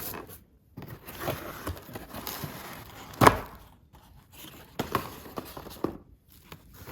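Packaging being handled during an unboxing, with irregular rustling and crinkling and one sharp knock about three seconds in.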